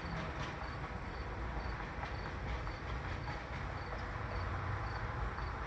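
A cricket chirping steadily, with short high chirps about two or three times a second, over a low background hum.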